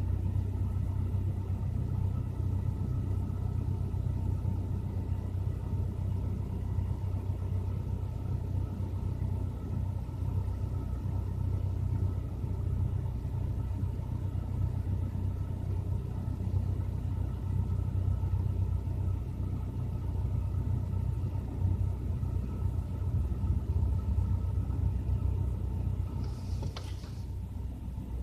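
Lada Granta's VAZ-21126 1.6-litre 16-valve four-cylinder petrol engine idling steadily, warming up after a winter cold start. A brief sharp hiss near the end.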